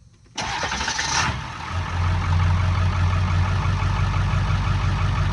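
Ford 7.3L Powerstroke turbo-diesel V8 starting after sitting for about four days: the starter cranks for about a second, then the engine catches and settles into a steady idle.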